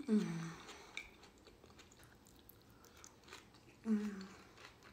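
Close-up mouth sounds of a woman chewing a soft onion slice: faint wet clicks, with a short hummed "mmm" falling in pitch right at the start and another about four seconds in.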